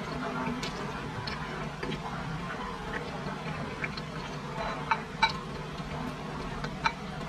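Close-miked chewing of braised pork: soft wet mouth clicks over a steady low hiss, with a few sharper clicks about five seconds in and near the end.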